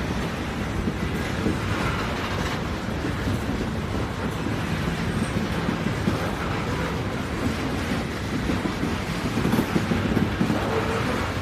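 A train running on its track: a continuous low rumble with track noise.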